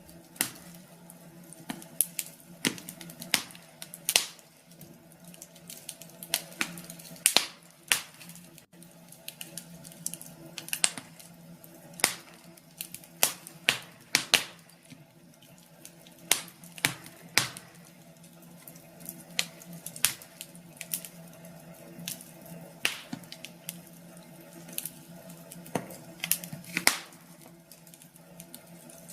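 Wood fire crackling in a fireplace: irregular sharp pops and snaps over a soft, steady hiss, with a faint steady low hum beneath.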